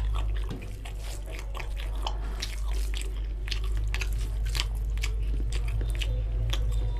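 Close-miked chewing of a mouthful of rice and curry, with many short wet mouth clicks, while fingers squish and mix rice and curry on a steel plate. A steady low hum runs underneath.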